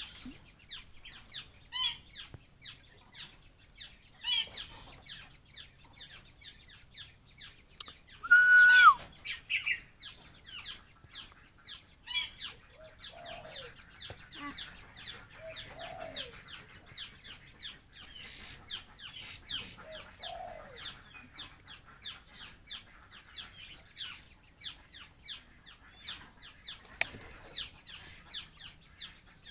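Birds calling: a steady run of short, quick chirps, with one loud call about eight seconds in and a few soft, low clucking calls in the middle.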